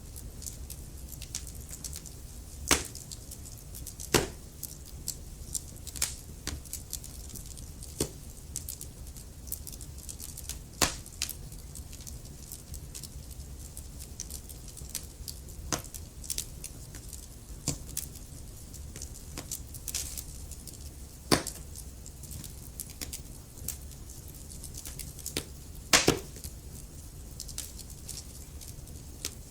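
Wood fire in a fireplace crackling, with irregular sharp pops over a steady low rumble of flame; the loudest pops come about 3, 4, 11, 21 and 26 seconds in.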